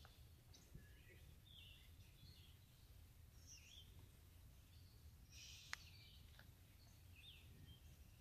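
Near silence: faint, scattered bird chirps and calls over a low, soft outdoor hum, with one faint click about two-thirds of the way in.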